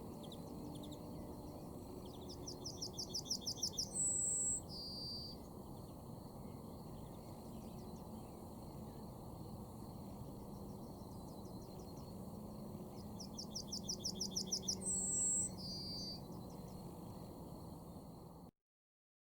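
A songbird singing the same song twice, about ten seconds apart: a quickening series of high notes that grows louder, ending in two short whistles, the second lower. A low steady background noise runs under it, and the sound cuts off abruptly near the end.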